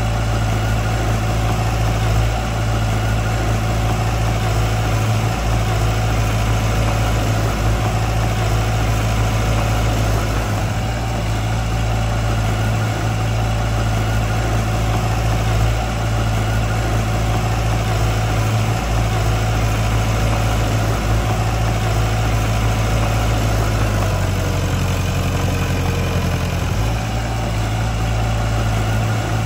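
Heavy machinery's diesel engine running steadily, its note shifting briefly for a few seconds near the end.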